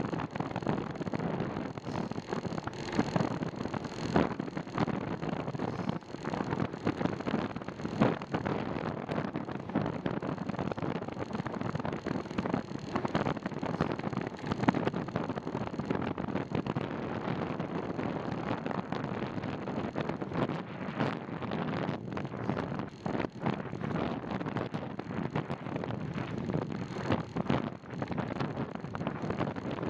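Wind rushing over the microphone of a camera carried on a moving bicycle, with frequent small knocks and rattles.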